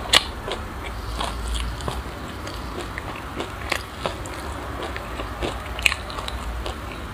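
Close chewing of crunchy sesame seeds mixed with passion fruit: irregular small crunches and crackles, with a sharper crack just after the start and another about six seconds in.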